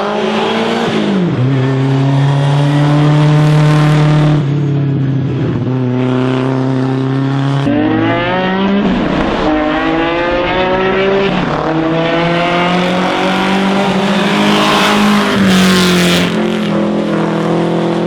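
Historic racing car engine driven hard under acceleration. Its pitch climbs with the revs and then drops sharply at each of several gear changes.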